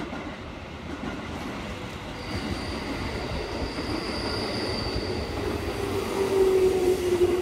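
311 series electric train pulling into the station and slowing along the platform: the rolling noise grows louder as the cars come past. A high thin squeal sounds through the middle, and near the end a low tone glides slightly down in pitch as the train brakes.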